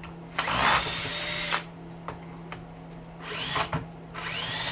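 Cordless drill-driver with a star bit running in two short bursts of about a second each, each spinning up with a rising whine, backing out screws from a plastic hedge trimmer housing. A steady low hum runs underneath.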